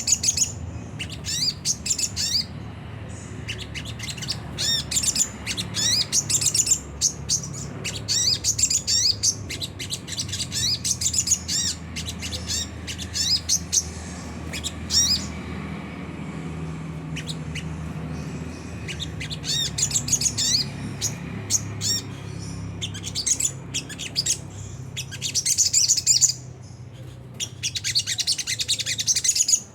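Little spiderhunter (sogok ontong) giving rapid, harsh chattering 'ngriwik' calls in repeated bursts of a second or two, with a quieter lull about halfway through.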